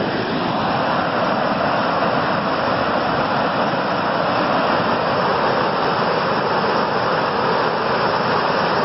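Steady rushing of floodwater from a creek and tributary swollen by hail and storm runoff, pouring over and across a road.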